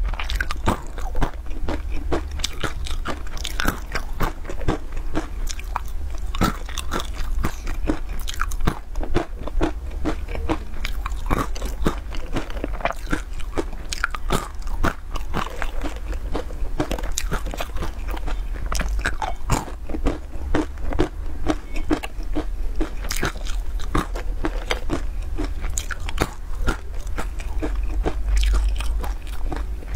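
Close-miked crunching and chewing of hard, sugar-glazed nuts coated in sesame seeds: a dense, irregular run of sharp crunches as each piece is bitten and chewed.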